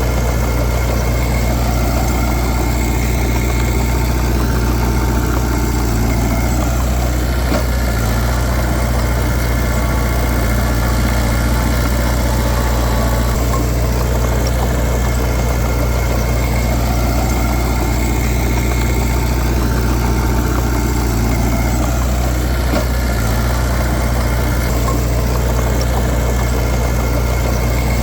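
Heavy diesel engine of an earthmoving machine running at a steady speed: a deep, even drone with no revving or clear impacts.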